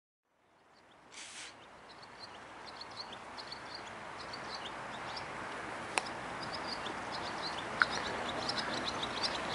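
Small birds chirping repeatedly over a steady background hiss that fades in and slowly grows louder, with a single sharp click about six seconds in.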